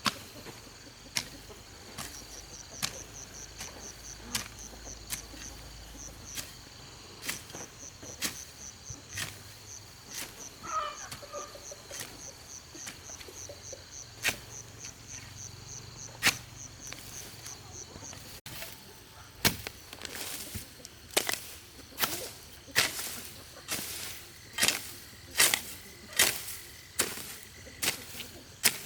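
Repeated chopping blows of a hand tool, about one a second, coming faster, nearly two a second, in the last third. A fast, high, pulsing insect trill runs under the first half.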